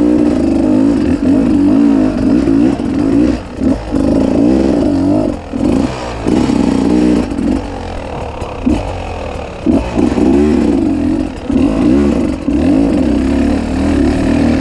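300 cc two-stroke enduro motorcycle engine working up a steep rocky climb, revving up and down as the throttle is repeatedly cut and reopened, with brief drops every second or two.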